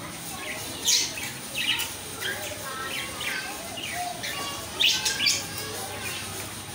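A bird giving a series of short chirps, many of them quick falling notes, with the loudest calls about a second in and again near five seconds.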